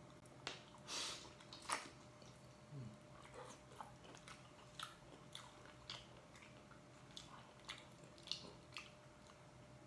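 Faint, close-up chewing and biting: irregular soft mouth clicks and small crunches, a few a second.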